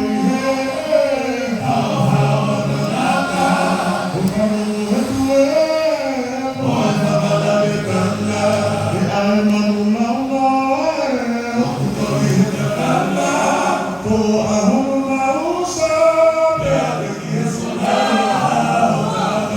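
A choir singing together in harmony, the voices moving in phrases of a few seconds.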